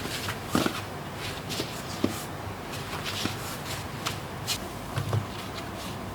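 Scattered light taps, clicks and rustles of someone moving about and handling things in a small room, about a dozen irregular small knocks with a few louder ones.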